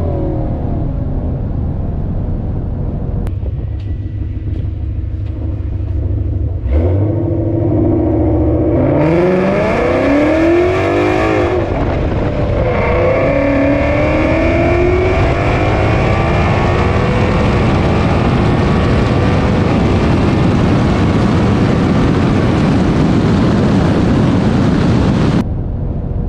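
Ford Mustang GT's 5.0 V8 with full exhaust and a ten-speed automatic, running evenly at first, then about seven seconds in revving hard on a drag launch and climbing in pitch through a string of quick upshifts before holding a loud, steady pull that cuts off near the end. The driver takes the launch for tire spin, with too little grip on worn or overheated tires.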